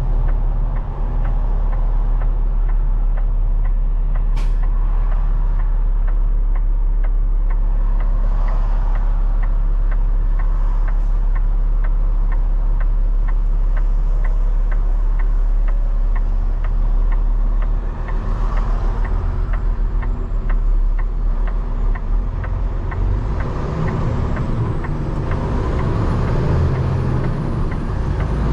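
Peterbilt 589 dump truck's diesel engine running steadily, with a turn signal ticking evenly about twice a second. The ticking stops about two-thirds of the way through, and the engine note then turns uneven, rising and falling.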